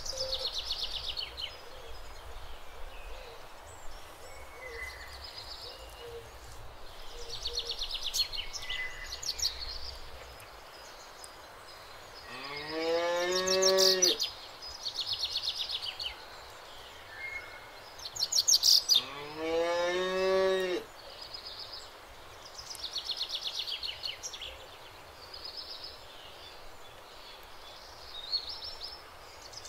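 Cows mooing twice, each a long call of about two seconds that rises in pitch, with birds chirping throughout.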